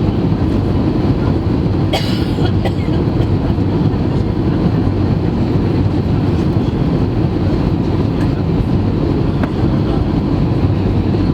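Airbus A320 noise: a steady low rumble, with a single sharp click about two seconds in and a few faint ticks after it.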